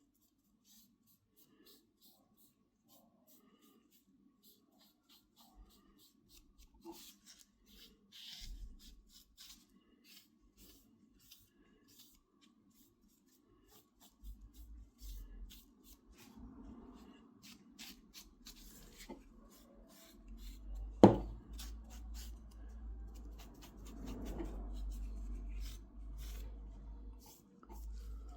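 Quiet hand-work sounds: faint rubbing and scattered small clicks, with one sharp knock a little past the middle and a low rumble under the second half.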